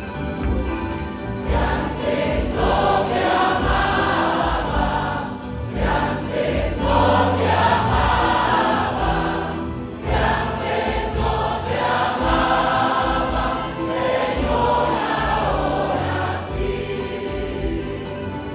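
Church choir singing a Spanish-language hymn over a low sustained accompaniment, in phrases with brief breaths about five and ten seconds in.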